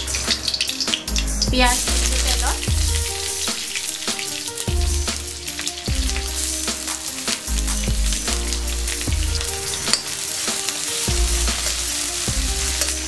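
A bay leaf sizzling in hot oil in an aluminium kadai; sliced onions are dropped in partway through and stirred with a metal ladle, and the sizzle goes on steadily. Background music with a steady bass line plays underneath.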